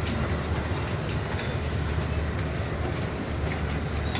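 Passenger train rolling out of a station, heard from an open coach doorway: a steady low rumble of wheels on the rails, with a few faint clicks over the track.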